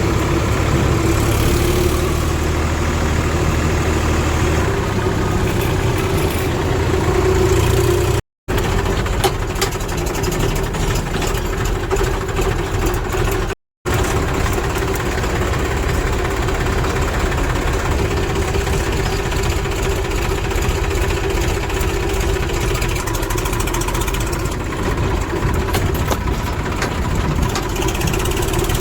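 Heavy diesel machinery engine running steadily at a mid engine speed, cut off twice for a split second where the footage is spliced.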